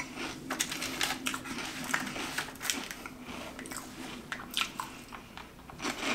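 Thin, crisp rolled coconut wafer cookie being bitten and chewed close to the microphone: a run of irregular crunches and small crackles.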